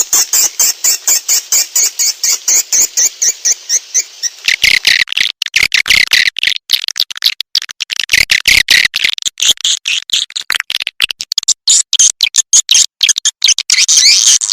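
Swiftlet lure call recording: rapid, high chirping and clicking twitters, first in a regular pulse of several chirps a second, then, about four and a half seconds in, a denser and more continuous chatter.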